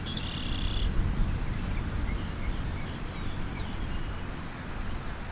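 Outdoor pasture ambience: a steady low rumble, a short high trilled call near the start, and a few faint chirps later on.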